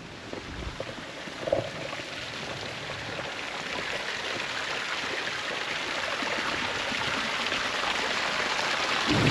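Running water rushing and splashing, steadily growing louder as if drawing closer to the flow.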